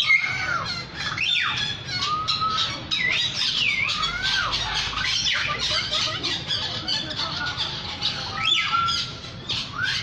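Many birds calling at once: overlapping whistled notes that slide up and down in arcs, over a dense, constant chatter.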